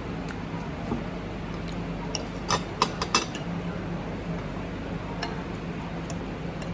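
Cutlery clinking against plates and dishes during a meal: a few sharp clinks, bunched together near the middle, over a steady background hum.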